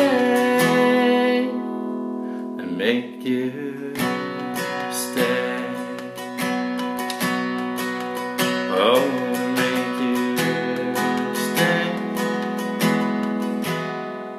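Acoustic guitar strummed in an instrumental outro, chords ringing out and fading away near the end.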